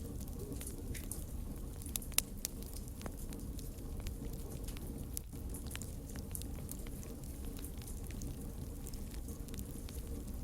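Campfire burning: a steady low rumble of flames with frequent, irregular sharp crackles and pops of burning wood.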